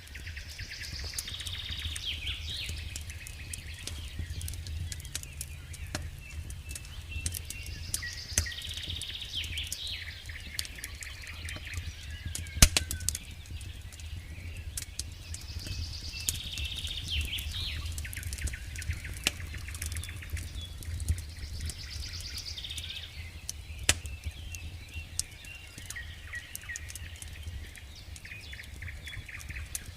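Campfire crackling with irregular sharp pops, one much louder snap about thirteen seconds in, over a steady low rumble. A songbird repeats the same short song phrase about every six or seven seconds.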